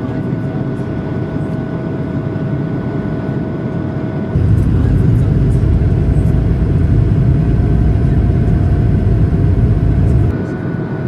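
Cabin noise of an Airbus A220-300 climbing shortly after takeoff: its Pratt & Whitney PW1500G geared turbofans give a steady drone with a thin whine. About four seconds in, a much louder low rumble cuts in suddenly and stops just as suddenly near the end.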